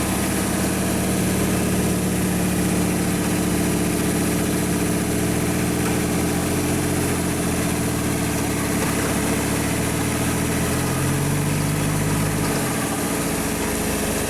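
Off-road 4x4 engines idling steadily. Near the end, one engine's tone rises slightly and then drops away.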